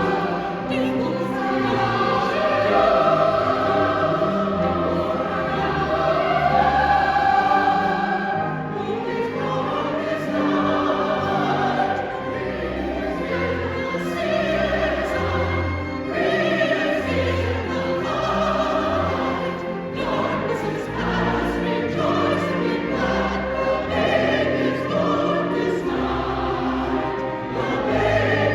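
A choir singing with a string ensemble accompanying, sustained chords with a low bass line moving underneath.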